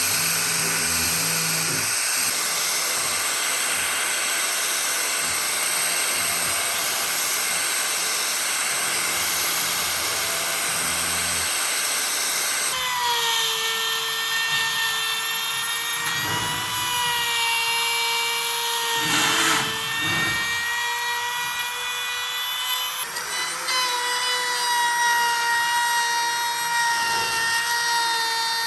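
An electric power tool working wood. For the first dozen seconds it gives a broad rasping noise, then a steady, high motor whine with a ringing tone.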